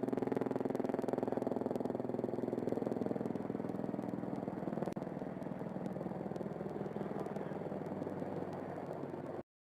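AH-64 Apache helicopter's engine and rotor drone heard over the cockpit intercom, steady, cutting off abruptly near the end.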